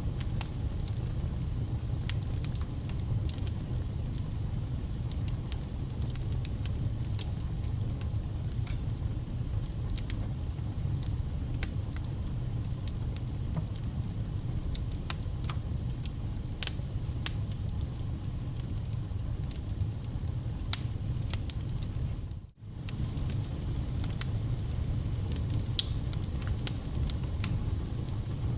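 Burning firewood: a steady low rumble of flames with frequent sharp crackles and pops from the logs. The sound drops out for an instant about three-quarters of the way through.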